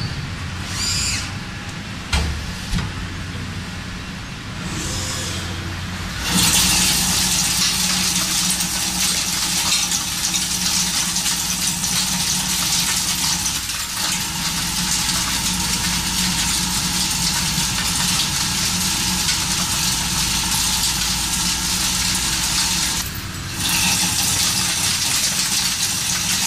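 Heavy industrial machinery running, with a steady low hum. About six seconds in, a loud even hiss sets in, breaks off briefly near the end and then resumes.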